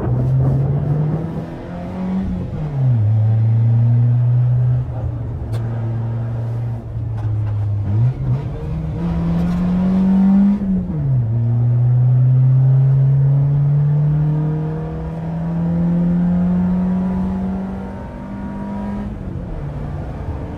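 Peugeot 206's four-cylinder engine with a straight-piped exhaust and an open intake, driven hard: the engine note climbs under throttle and drops sharply three times, at gear changes or lifts, with a steady stretch in between.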